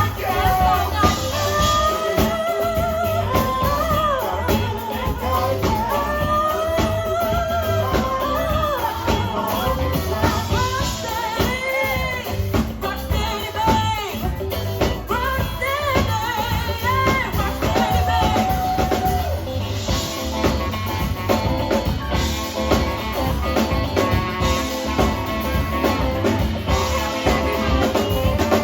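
A live band playing a song: a singer's voice with vibrato over drum kit and bass, giving way to the instruments alone about two-thirds of the way through.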